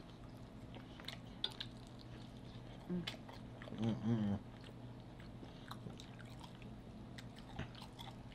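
Close-miked chewing and biting of sauced fried chicken wings, with scattered small wet mouth clicks and smacks. A short hummed "mm" of enjoyment comes about three seconds in, and a louder one around four seconds in.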